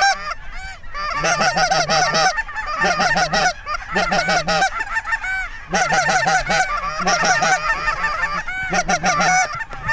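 Geese honking: many overlapping calls, coming in bursts with brief pauses between them.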